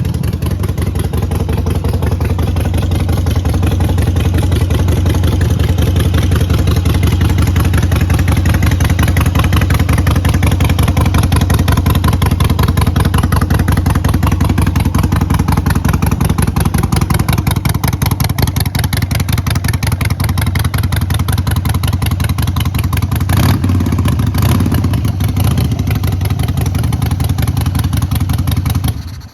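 Harley-Davidson 883 Iron's air-cooled 883 cc V-twin idling with a steady, even pulsing beat. There is a short louder spell of throttle about three-quarters of the way through, and the engine is switched off right at the end.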